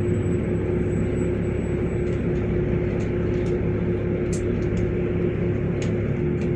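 LiAZ 5292.65 city bus heard from inside the cabin while driving: a steady engine drone over road rumble, with a few light rattles.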